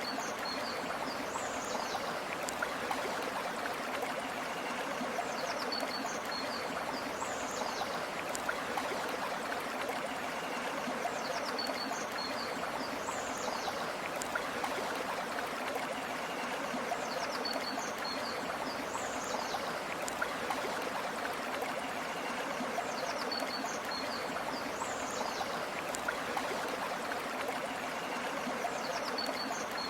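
River water flowing in a steady, even rush. A short high call, the same each time, recurs about every six seconds.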